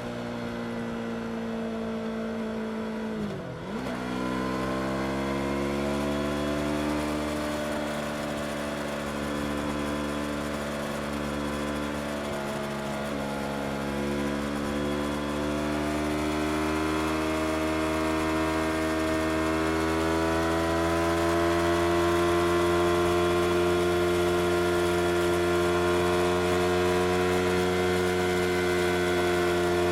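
Yamaha R25's parallel-twin engine running under way, its pitch climbing slowly, with a sharp brief dip a few seconds in and a smaller dip about halfway through.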